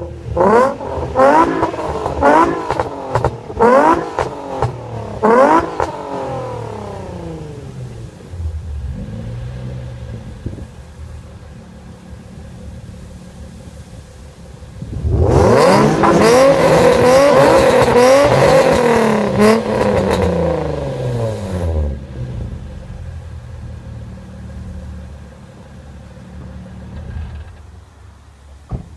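Nissan 350Z's 3.5-litre V6 exhaust: the engine is blipped about six times in quick succession, each rev rising sharply and falling back, then settles to idle. About halfway through it is held at high revs for some seven seconds, wavering slightly, before dropping back to a steady idle.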